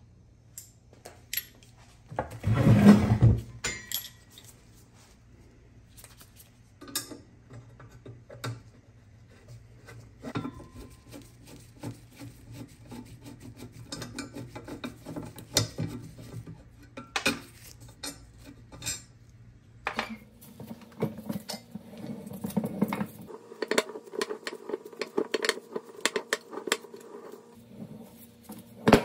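Metal clinks, taps and scrapes as an old Alaska No. 1 ice crusher is taken apart by hand, with a wrench working its bolts and its spoked handwheel being handled and pulled off. A louder knock-like noise about three seconds in, and a steadier rubbing rattle with a faint hum in the second half.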